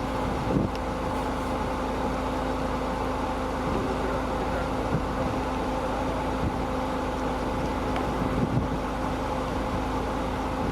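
A 4x4's engine running at a steady speed: a constant low rumble with an even hum, and a few faint knocks.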